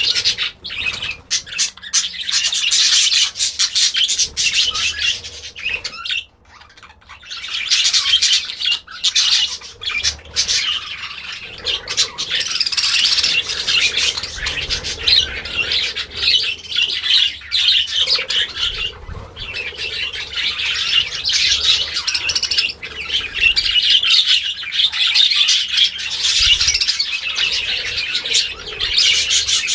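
Many parrots calling over one another in a dense, continuous chatter, with a brief lull about six seconds in.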